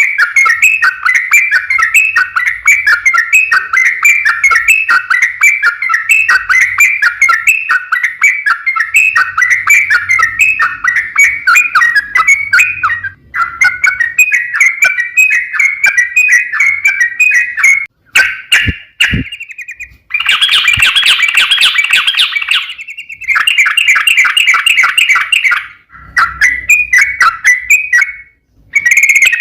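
Yellow-vented bulbul (trucukan) song, a long run of rapid, bubbly chattering phrases repeated with hardly a pause, played as a lure recording to set other bulbuls singing. The song breaks off briefly a few times, with a few sharp clicks about two-thirds of the way through, and comes back denser and louder just after.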